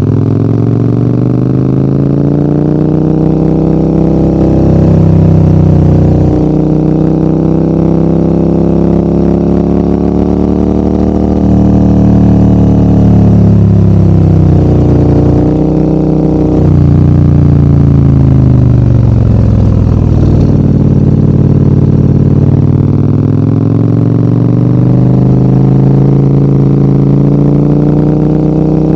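KTM Super Adventure's V-twin engine pulling uphill on a ride. Its revs rise and fall again and again, with sudden drops in pitch at several gear changes.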